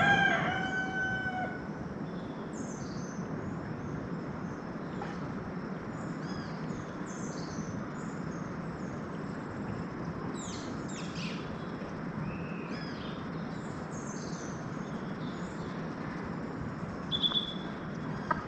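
Birds chirping and calling, many short high notes scattered over a steady background noise, with a held pitched call at the start and a short high whistle near the end.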